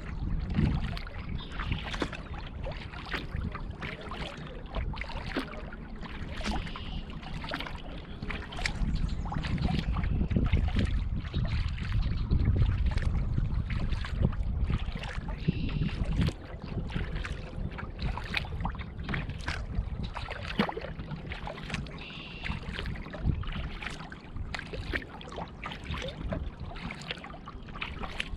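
Kayak paddle strokes: the blade dips and drips water, with many small irregular splashes and trickles. Under them runs a low rumble, heaviest through the middle.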